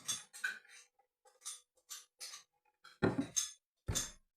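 Short clinks and knocks of a tea container and cup being handled, with two heavier thumps about three and four seconds in.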